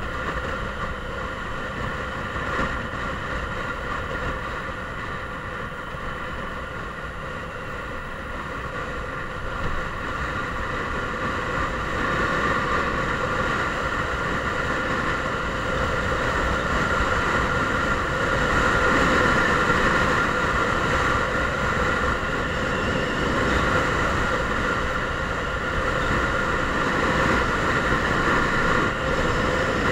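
Mondial Drift 125 motorcycle engine running steadily on the move, with a steady hum over a low rumble. It gets louder from about halfway through.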